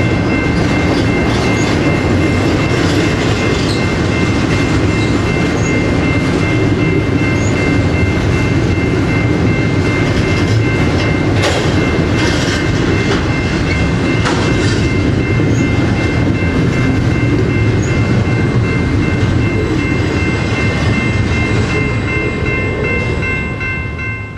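A train rolling past close by: a loud, steady rumble of wheels on rail with occasional clicks over joints and a steady high-pitched ringing over it, fading near the end.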